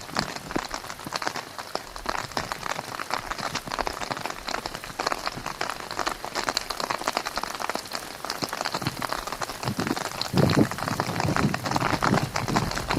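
Rain falling steadily as a dense patter of drops, getting heavier and louder about two-thirds of the way through.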